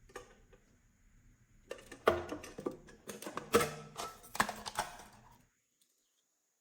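Slime being worked by hand, a run of sticky clicks and crackling pops that stops suddenly about two-thirds of the way through.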